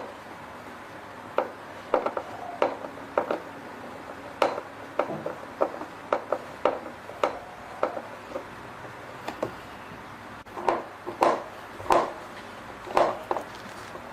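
Irregular knocks, clicks and rubbing of hand-tool work on a washing machine's parts, one or two sharp knocks a second with short pauses.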